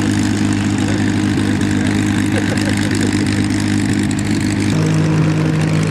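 Propeller aircraft engine idling with a steady hum; about five seconds in, its tone shifts as a new, lower note takes over.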